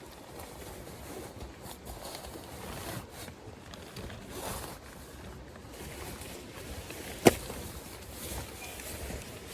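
Footsteps and handling noises on wet ground, with one sharp knock about seven seconds in.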